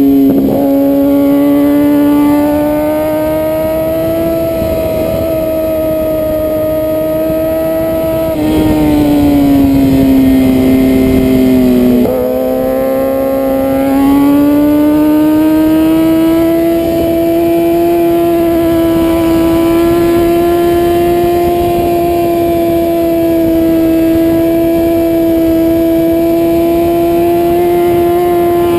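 Sport bike engine heard from a camera on its own fairing, running hard at high revs and holding a fairly steady pitch through corners. The pitch sags for a few seconds, then climbs again after a sudden change about twelve seconds in. Wind rush over the fairing sits underneath.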